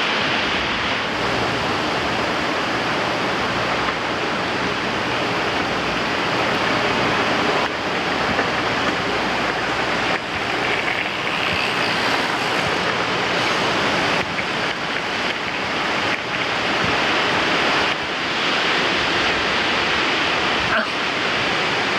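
Strong wind buffeting the microphone: a loud, unbroken rush of noise that swells and dips slightly with the gusts.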